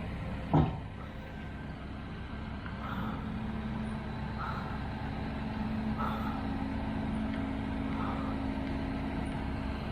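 A heavy vehicle's engine running steadily with a low hum, with one sharp knock about half a second in and faint short blips recurring about every second and a half.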